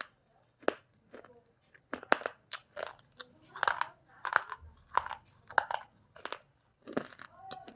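Slate pencil being bitten and chewed, a run of sharp, dry crunches about one or two a second.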